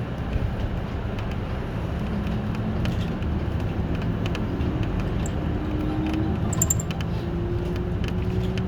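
City bus running along the street, heard from inside the cabin: a steady engine and road rumble, with a whine that rises slowly in pitch from about halfway through, and light rattles.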